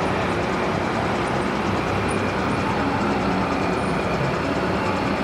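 Motor vehicles driving slowly past in a convoy: a steady engine hum and road noise with no sharp events.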